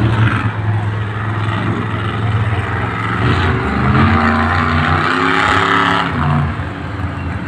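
Monster truck engine running and revving, loudest about halfway through.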